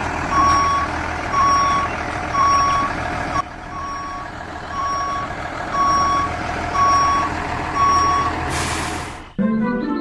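Vehicle reversing alarm beeping about once a second over a steady mechanical noise. It stops near the end with a brief hiss, and music starts.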